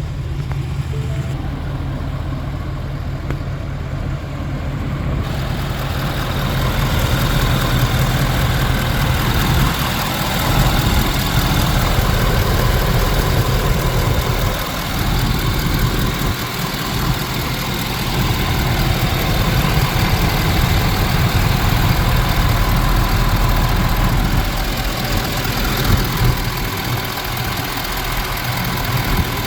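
Diesel V8 of a 2018 Ford F-250, a 6.7 L Power Stroke, idling steadily. The sound gets louder and brighter about five seconds in.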